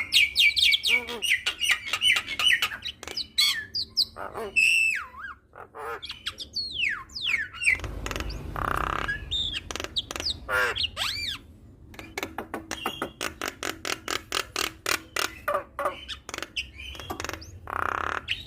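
Javan myna singing a busy, varied song: whistles that glide up and down, fast runs of clicks and rattles, and harsh hissing squawks, one in the middle and one near the end.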